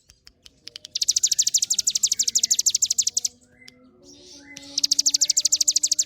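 Ciblek gunung (a mountain prinia) singing in 'ngebren' style: two long, rapid runs of high, sharp repeated notes, about a dozen a second, the first starting about a second in and lasting a couple of seconds, the second starting near the end.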